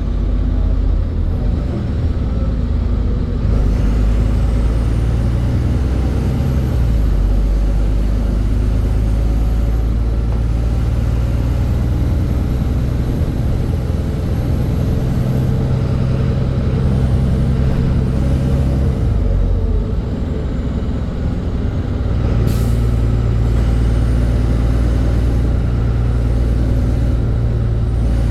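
NefAZ-5299 city bus running under way, heard from on board: a steady engine drone whose pitch steps up and down several times as the bus speeds up and slows. A short sharp hiss of compressed air comes about three-quarters of the way through.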